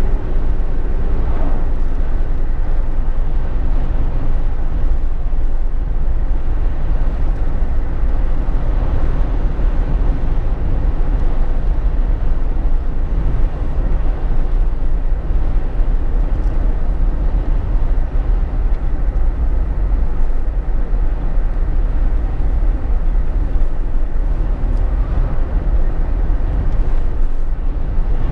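Steady cabin noise inside a Jeep Wrangler JK on the move: a deep drone of road, tyre and engine noise with wind, even throughout.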